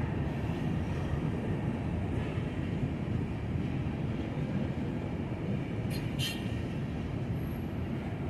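Freight train cars rolling past with a steady low rumble of steel wheels on the rails, with two brief sharp high-pitched sounds about six seconds in.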